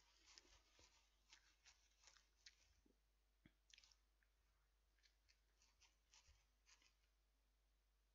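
Near silence with faint, scattered mouth clicks and soft crunches of a person chewing a mouthful of burger in a bun, thinning out in the second half.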